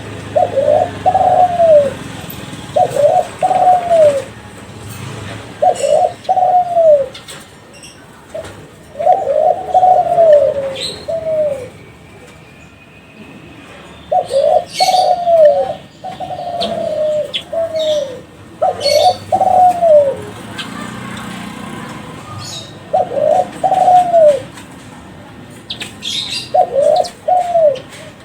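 Derkuku Kelantan spotted dove cooing: short phrases of two or three rising-and-falling coos, repeated about every two to four seconds. Faint chirps of small birds lie between the phrases.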